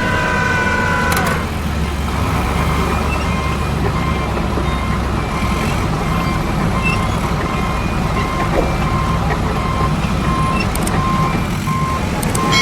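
Heavy truck engine running with a reversing alarm beeping steadily at an even pace, a stock construction-vehicle sound effect. Some steady tones sound over it for the first second and a half, then stop.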